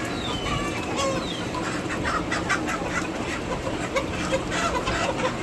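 Several chickens clucking, with many short calls overlapping.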